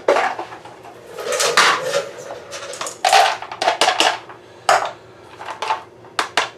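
Irregular clicks and short clatters of small hard objects being handled and set down on a tabletop, such as firework shell parts being picked up and moved.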